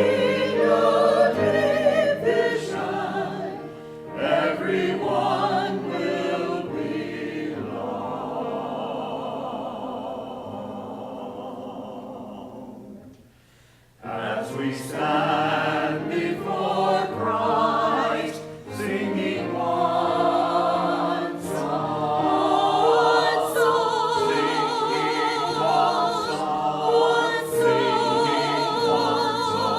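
Church choir singing. A long held chord fades out about halfway through, there is a brief pause, and the singing starts up again.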